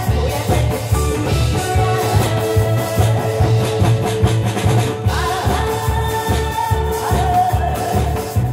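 Amplified music from a pumba performance: a voice singing over loud accompaniment with a steady, regular beat.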